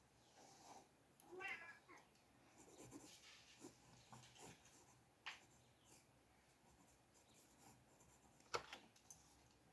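A domestic cat meows once, briefly, about a second and a half in, over quiet room tone. There are a few sharp clicks, one near the middle and a louder one near the end.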